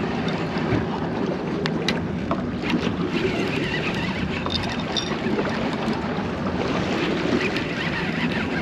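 Steady running noise of a fishing boat at sea, with wind on the microphone and a few light clicks and knocks of gear.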